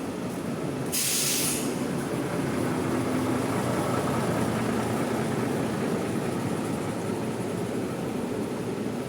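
A bus engine running with a steady low rumble, with a short hiss about a second in.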